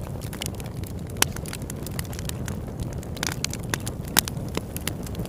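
Campfire crackling with sharp, irregular pops over a steady low rumble of burning; two pops stand out, about a second in and about four seconds in.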